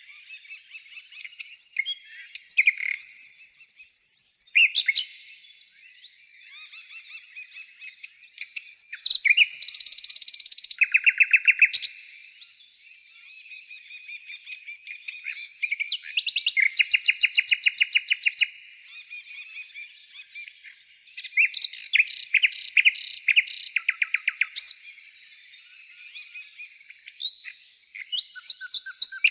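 Songbird singing a long, varied song of high chirps and whistles, broken by rapid trills a second or two long, three of them close together in the middle and latter part.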